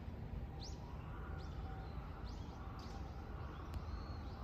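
A small bird calling over and over, short rising chirps about once a second, over a steady low background rumble.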